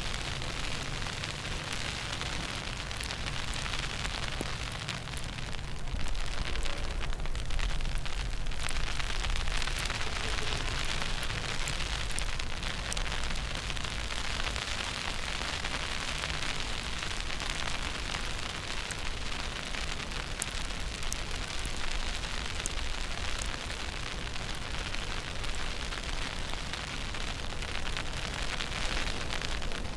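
Steady outdoor street ambience in a snowstorm: an even hiss over a low rumble, with scattered faint ticks and no clear single event.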